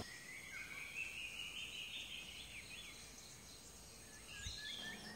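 Faint bird calls over a light hiss: a drawn-out high whistle that rises slightly over the first couple of seconds, with a few short chirps near the start and again near the end.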